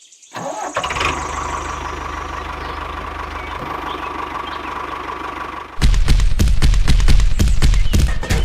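An engine running steadily with a thin whine. About six seconds in, a much louder, rough, knocking engine rumble takes over.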